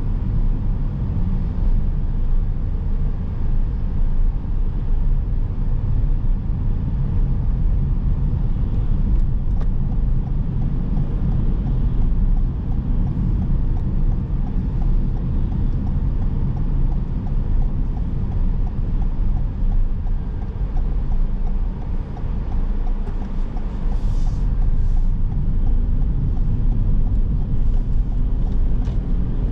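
Car driving on city streets: steady low rumble of road and engine noise. A faint, even ticking runs for several seconds in the middle.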